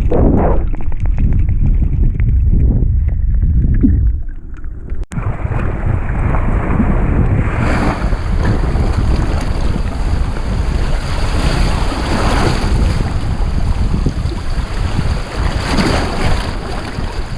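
Muffled low rumble of water heard through a GoPro's underwater housing. About five seconds in it breaks off sharply and gives way to a brighter, steady wash of wind on the microphone and waves.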